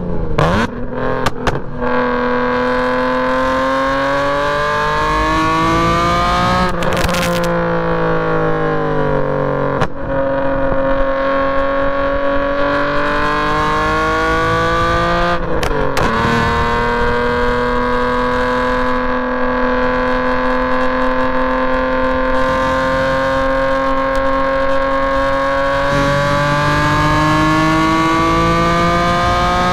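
BMW E46 M3's straight-piped inline-six engine being driven hard on track. Its pitch climbs steadily under acceleration, then falls away sharply several times at gear changes or when the driver lifts off.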